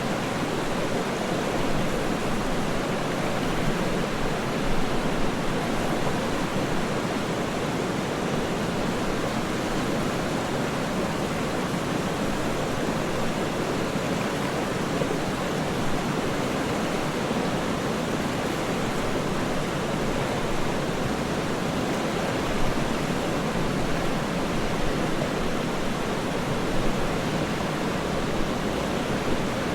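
A waterfall rushing steadily: an even, unchanging wash of water noise, fullest in the low and middle range.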